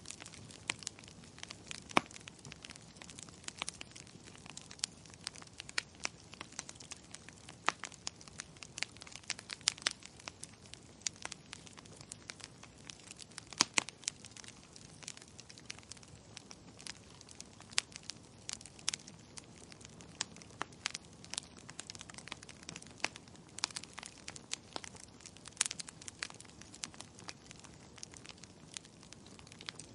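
Wood fire in a fireplace crackling: irregular sharp pops and snaps, several a second and of varying loudness, over a soft steady hiss.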